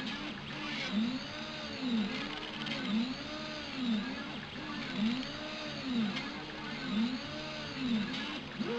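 Stepper motors of a Prusa i3-type 3D printer whining in rising-and-falling pitch arcs about twice a second, as the print head speeds up and slows down on repeated back-and-forth moves.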